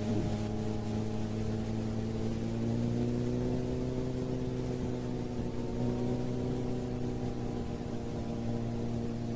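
Motorcycle engine running at a steady cruising speed, a constant drone whose pitch rises and falls only slightly with small throttle changes.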